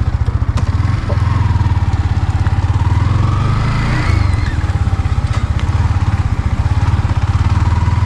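Motorcycle engine running steadily at low revs: a deep, rapidly pulsing thrum.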